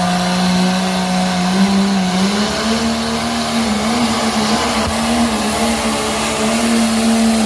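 Diesel pulling truck's engine running hard at high revs under load while pulling the sled. Its pitch climbs a step about two seconds in, then holds with small wavers.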